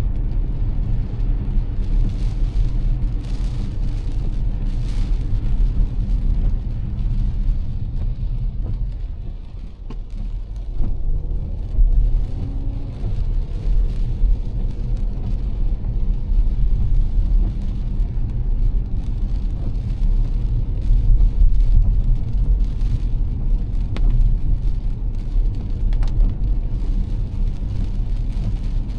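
Car driving on wet streets in heavy rain: a steady low rumble of engine and tyres with a haze of rain and spray noise above it. The rumble dips briefly about ten seconds in, then picks up again.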